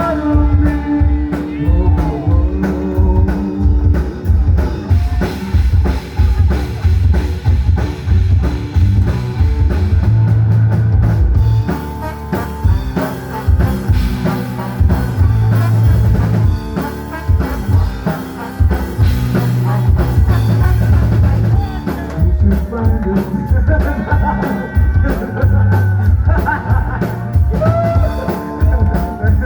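Rock band playing live, with drum kit, electric guitar and a singer.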